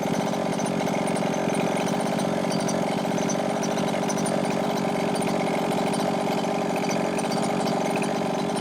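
Chung Yang 29cc two-stroke engine of a 1/5-scale Losi 5ive T RC truck idling steadily, running rich during a break-in heat cycle.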